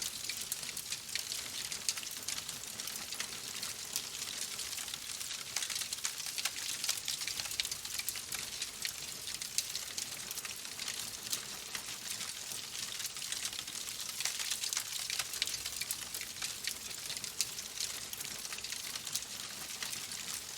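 Wood fire crackling in a fireplace: a steady hiss dense with small, quick pops and snaps.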